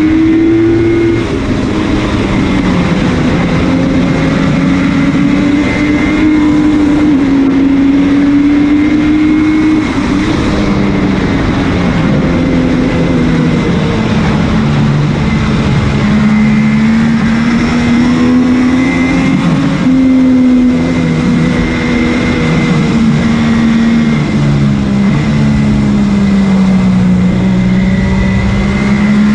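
MV Agusta F3's three-cylinder engine at racing speed, the engine note climbing and dropping over and over as the rider accelerates and backs off, with wind rush over the bike.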